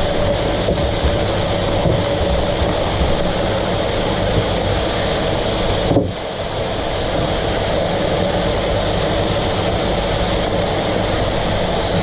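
Steady mechanical running noise with a hiss, unbroken except for a brief drop about six seconds in.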